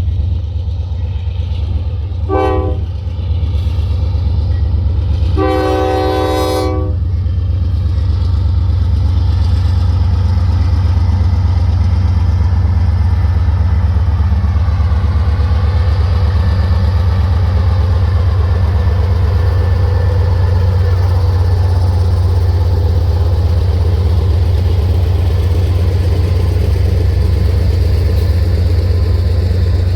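Train locomotive sounding its horn, a short blast about two seconds in and a longer blast about five seconds in, over the steady heavy rumble of the passing train.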